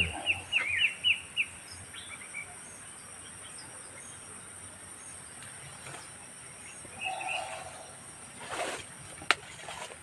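A small bird chirping rapidly for the first second or so, with one more short call later, over a steady high insect hum. Near the end come a few rustles and a sharp click.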